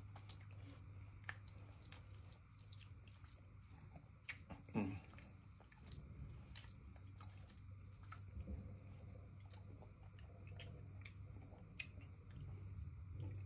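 A person chewing food close to the microphone, with soft wet mouth clicks scattered throughout, over a steady low hum.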